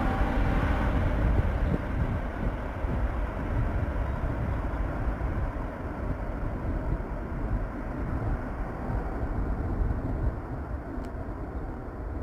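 Airbus A380's four jet engines rumbling as the airliner climbs away after takeoff, the roar slowly fading and growing duller as it recedes.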